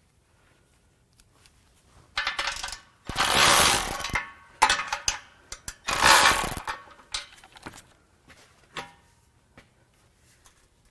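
Ratchet wrench clicking while exhaust bolts are tightened under a car, with two loud noisy bursts of about a second each and scattered metal clicks between them.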